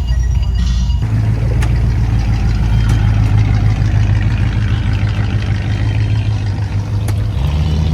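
Car engine running steadily with a low hum, shifting in pitch about a second in and again near the end.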